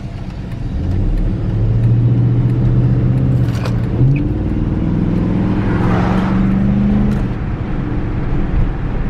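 Hemi V8 engine pulling hard while the car accelerates: a steady engine note that steps up in pitch about four seconds in, climbs further, then eases off around seven seconds.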